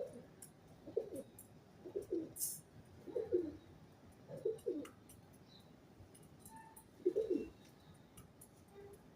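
Pigeon cooing: five low coos about a second apart, then one more after a pause of about two seconds.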